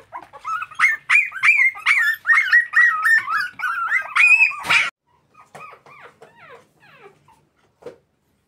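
Several young puppies whining and yelping in a rapid string of short, high-pitched cries, pressing to get out. About five seconds in the sound cuts off abruptly and only fainter, scattered whimpers follow.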